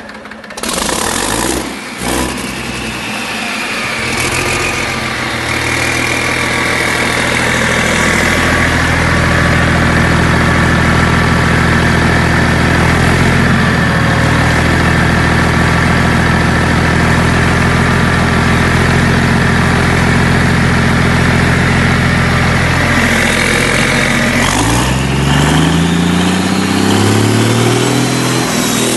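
Cummins KTA19 marine diesel engine, a turbocharged straight-six, running steadily with a high whine over its deep note. About 25 seconds in the revs drop sharply, then climb back up.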